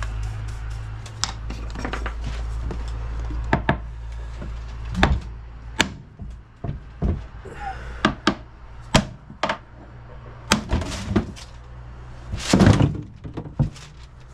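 A series of irregular sharp knocks and clunks of hard objects, the loudest a heavy thunk near the end, over a low hum that fades out about five seconds in.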